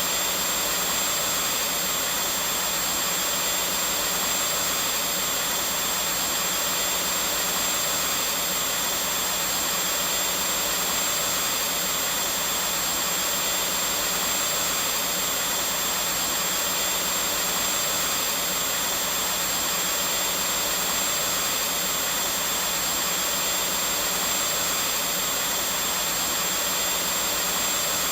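Vacuum cleaner running continuously at a constant speed: a steady rushing noise with a thin, high whine held over it.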